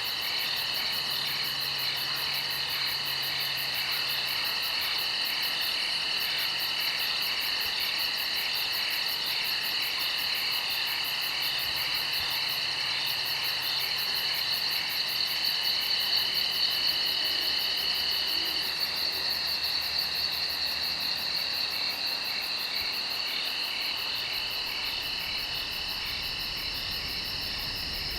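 Steady night chorus of insects such as crickets, a continuous high-pitched pulsing trill with several overlapping voices.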